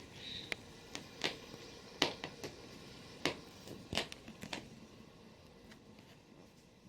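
Faint rustling with scattered light clicks and taps, about eight of them over the first five seconds, then fading.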